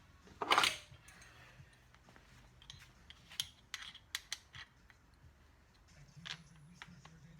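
Small metal hand tool being worked and handled while a heli-coil thread insert is wound in. There is a short scrape about half a second in, then a run of sharp light metallic clicks and one more click near the end.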